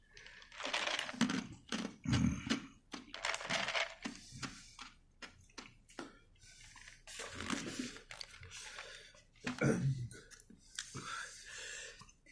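A man breathing hard and hissing air in and out through his mouth against the burn of very hot sauce, with small mouth clicks and a short grunt about 10 seconds in.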